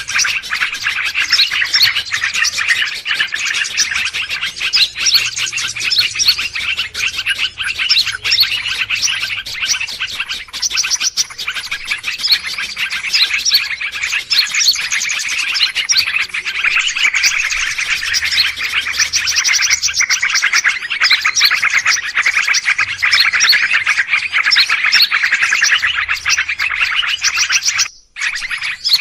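A dense chorus of many small birds chirping and twittering over one another, played as a bird-luring call track. It cuts out for a moment near the end.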